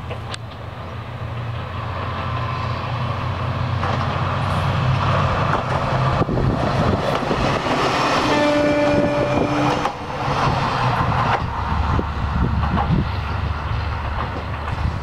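Single-car diesel railcar approaching, passing close by and pulling away. Its engine drone builds to a peak as it goes past, then fades, with the wheels clicking over the rails as it moves off.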